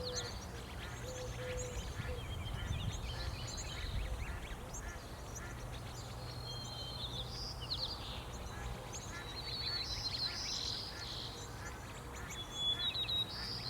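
Small songbirds chirping and trilling at a feeder: many short, high calls overlapping throughout, over a steady low rumble.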